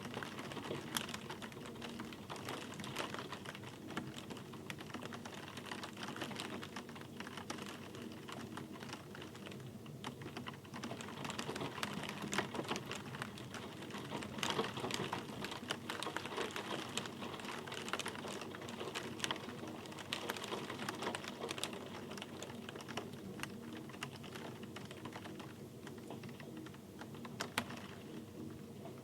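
Rain falling, with many separate drops ticking sharply and irregularly over a steady hiss.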